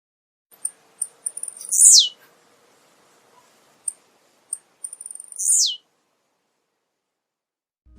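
Male blue-black grassquit (tiziu) singing: twice, a string of short high ticks runs into a loud, quick note sweeping steeply down in pitch.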